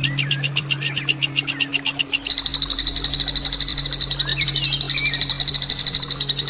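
Songbird singing a long, rough rolling trill, a fast rattle of about ten high notes a second that turns denser and buzzier about two seconds in. Faint chirps sit over a steady low hum.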